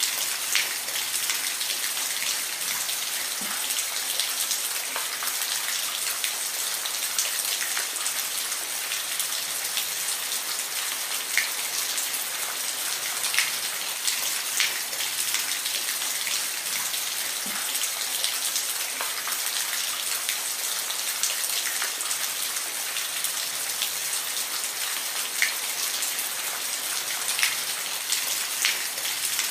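Steady rain falling, an even high hiss with scattered sharp drips and taps of single drops.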